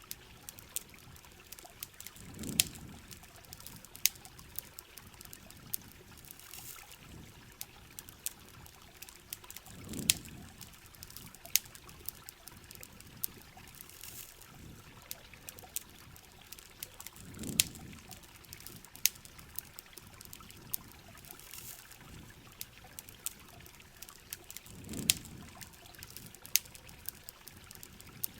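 Mixed rain and campfire ambience: steady rain and trickling water with frequent sharp crackles and pops from a wood fire. A low falling swoosh comes back about every seven and a half seconds, four times.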